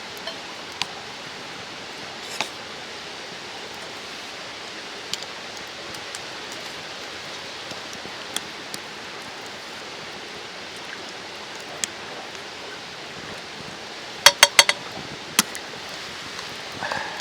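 Steady rush of a mountain stream, with scattered small clicks and, about fourteen seconds in, a quick run of four sharp ringing clinks, like camp cookware or utensils knocked together, followed by one more a second later.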